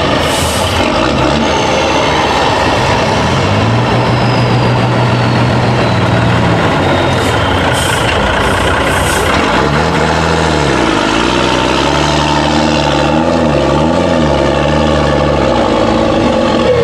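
Iveco off-road trial truck's diesel engine working hard, revs held steady for a few seconds, then rising and falling several times in quick succession past the middle. A few short hisses, like air brakes, break in near the start and around halfway.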